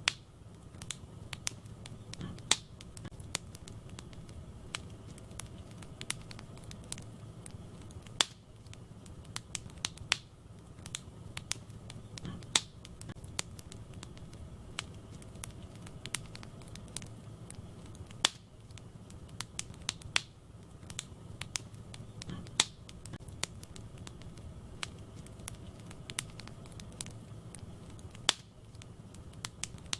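Wood fire burning in a fireplace: irregular sharp crackles and occasional louder pops over a steady low rumble of the flames. The same run of pops comes round about every ten seconds.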